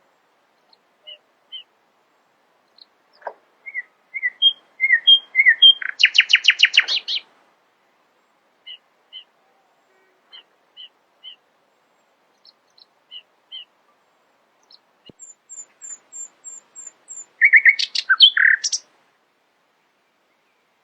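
A songbird singing in bursts. About four seconds in, a run of whistled notes ends in a fast rattling trill. Soft paired chirps follow, then a row of very high thin notes and, near the end, another loud, varied phrase.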